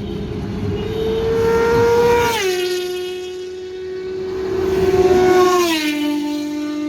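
Two superbikes passing at speed at high revs, one after the other, each engine note swelling and then dropping in pitch as it goes by.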